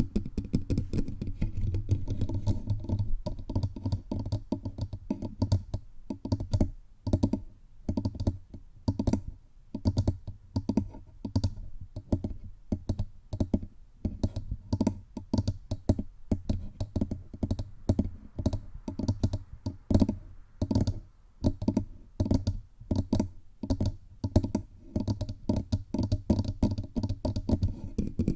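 Rapid fingertip tapping directly on a bare microphone's body, the taps deep and close, coming in quick clusters with short pauses between them.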